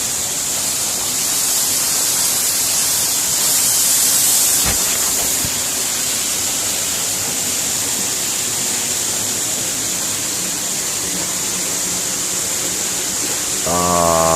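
Waterfall crashing down close by: a steady, hissing roar of falling water and spray, with a single faint click a few seconds in. Near the end a loud, steady buzzing drone like a small motor sets in over it.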